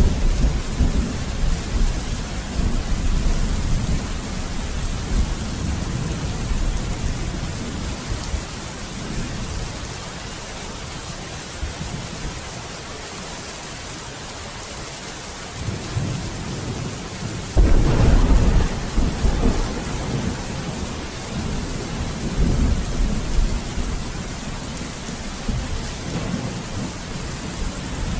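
Steady rain falling through a thunderstorm, with rolling thunder. A rumble dies away over the first several seconds. After a quieter lull, a sharp, loud thunderclap comes about two-thirds of the way in and rolls on, and lighter rumbles follow.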